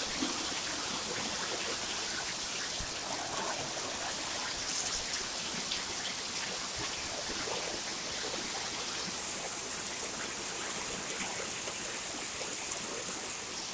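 Heavy pouring rain: a steady hiss of a downpour that grows louder about nine seconds in.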